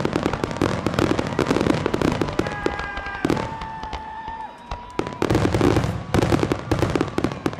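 Fireworks display: a dense, rapid barrage of bursts and crackling reports, with a few held high whistling tones about three seconds in and a short lull near the middle before the bursts pick up again.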